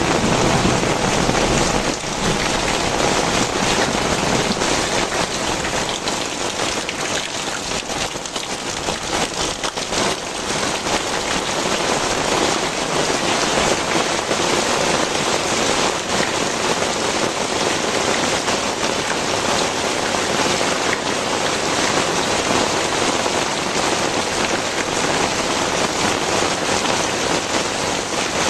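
Very heavy rain pouring down and striking the ground and surfaces in a dense, steady hiss, a little louder in the first two seconds.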